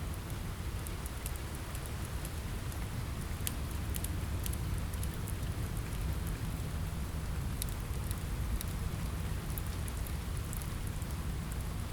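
Steady rain on a window with a low rumble underneath, mixed with a wood fire in a fireplace giving scattered sharp crackles and pops.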